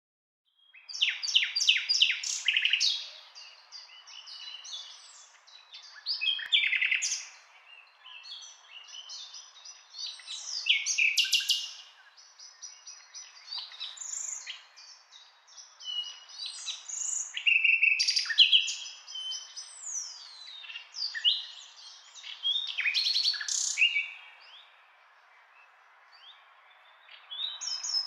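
Birds singing: bursts of high chirps, trills and whistles every few seconds over a faint steady hiss, with a quieter lull near the end.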